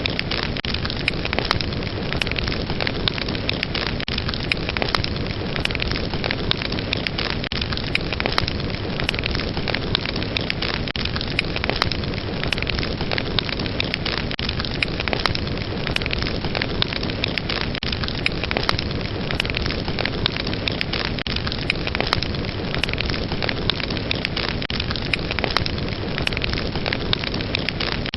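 Fireplace fire crackling steadily: a constant hiss with a dense stream of small pops and snaps.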